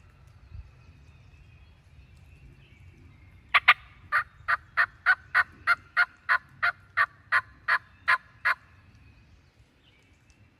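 Turkey yelping: a long run of about fifteen sharp, evenly spaced notes, roughly three a second, starting a few seconds in and lasting about five seconds.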